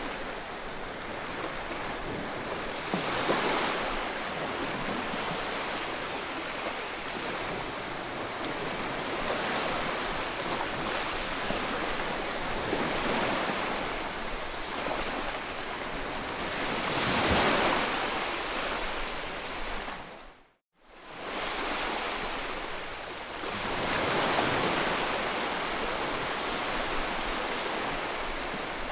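Ocean waves breaking on a shore in a steady wash of surf, with waves cresting louder about 3, 17 and 24 seconds in. The sound cuts out briefly about two-thirds of the way through.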